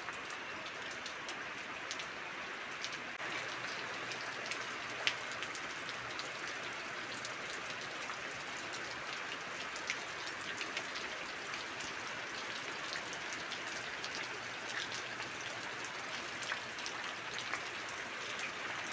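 Rain falling steadily, with scattered individual drops tapping on a nearby surface.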